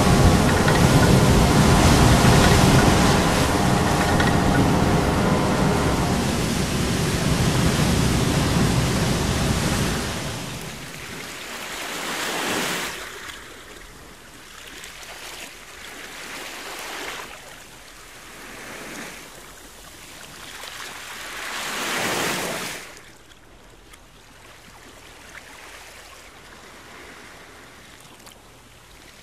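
Sea surf: heavy rushing water from waves breaking over rocks, with a low steady hum underneath for the first few seconds. It then drops to quieter waves washing in and drawing back, swelling and fading several times, a few seconds apart.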